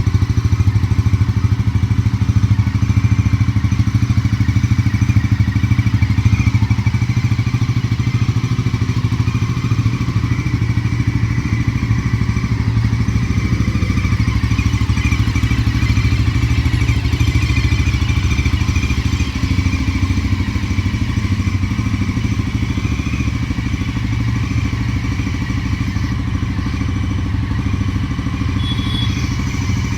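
Bajaj Pulsar NS400Z motorcycle's single-cylinder engine idling steadily, heard through its exhaust.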